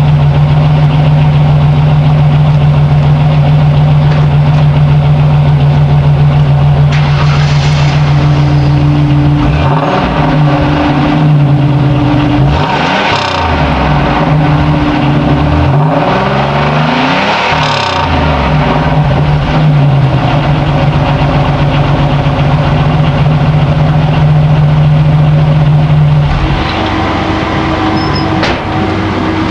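Chevrolet Celebrity's 3.1-litre V6 exhaust, through a single muffler and two tips, idling, then revved twice, each rev climbing and falling back to idle. The idle note shifts near the end.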